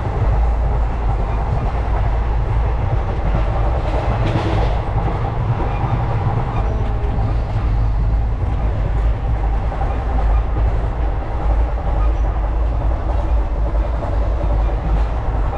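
Moving passenger train heard on board: a steady loud rumble of the wheels running over the rails, with a brief rushing hiss about four seconds in.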